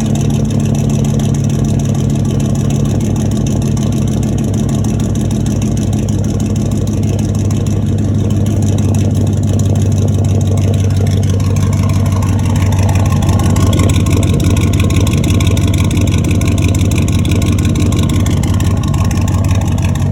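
2004 Chevy Silverado 1500's 5.3L V8 running through straight pipes with no catalytic converters, a loud, unmuffled exhaust note at idle. About halfway through the engine note shifts and rises a little, then settles back near the end.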